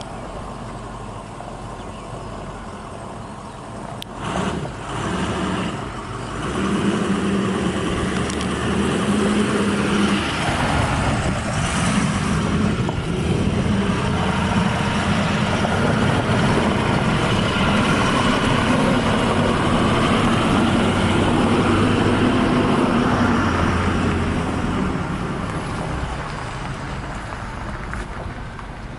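John Deere 4300 compact tractor's three-cylinder diesel engine running, getting louder about six seconds in and easing off again near the end.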